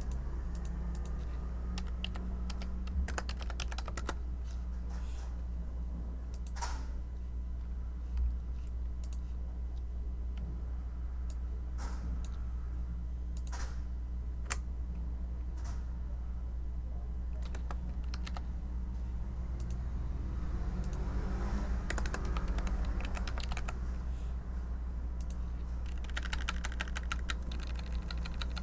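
Typing on a computer keyboard: runs of quick key clicks with short pauses between them, over a steady low hum.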